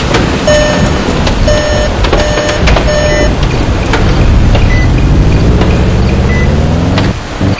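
Car cabin warning chime beeping four times in the first few seconds. The car's engine then revs up steadily as it accelerates, its note rising until it drops away near the end. Rain and hail drum on the car throughout.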